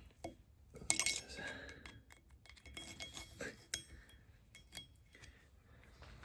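Metal tools and engine parts clinking and knocking together as they are handled, a scatter of short sharp clinks, the loudest about a second in.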